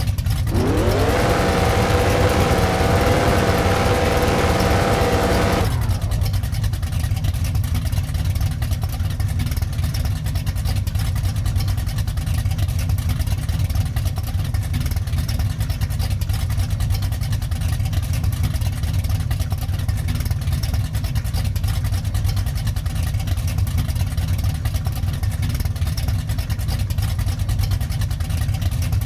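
Old Dodge Dart race car's engine revving up quickly in the first second and holding high revs for about five seconds, then dropping off abruptly to a steady low rumble for the rest.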